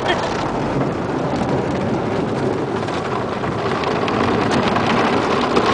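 Automatic car wash heard from inside the car: a steady hiss of water spraying and drumming on the car body, with a few faint ticks of droplets near the end.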